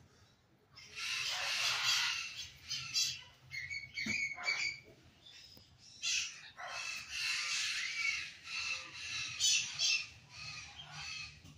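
A flock of parrots squawking and screeching in harsh, overlapping calls, their noisy chorus at bedtime.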